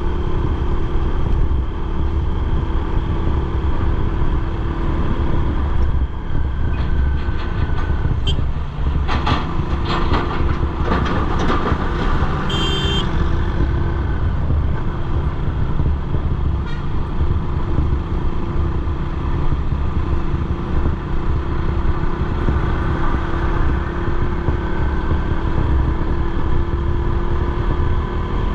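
Motorcycle running steadily on the road, with engine drone and low road rumble. A brief burst of clattering comes about a third of the way in, followed by a short high toot near the middle.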